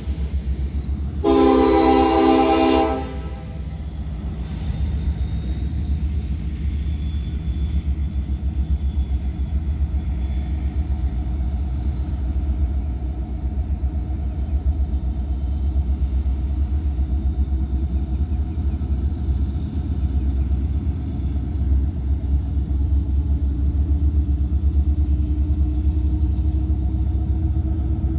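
A diesel locomotive's air horn sounds one blast of under two seconds about a second in. The train then rolls past with a steady low rumble.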